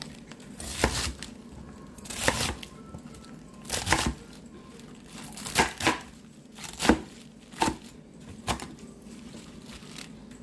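Kitchen preparation noises: a series of short, irregular rustling, tearing and knocking sounds, about seven of them, spaced a second or so apart.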